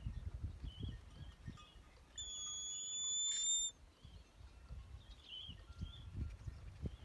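High-pitched bird calls: short chirps scattered through, and one steady high whistle lasting about a second and a half, starting about two seconds in, over an intermittent low rumble.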